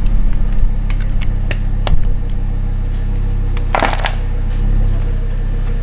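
Ford Focus ST Mk2's 2.5-litre five-cylinder turbo engine idling steadily, with a few sharp clicks and a knock in the first two seconds and a brief scuff about four seconds in as the camera is handled.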